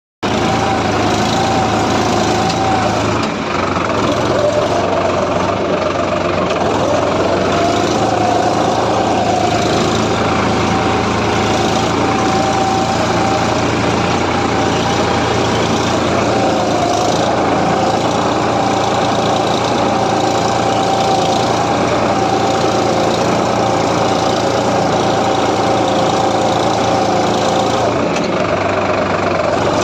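Sonalika tractor's diesel engine running hard under heavy load while working the soil about 15 inches deep. The engine note runs steady but dips and recovers several times as the load bites.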